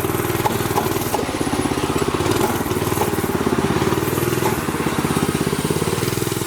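Mini bike engine running steadily with a fast, even pulsing, the noise pointed out as a drivetrain problem; the owner suspects a stretched, loose chain.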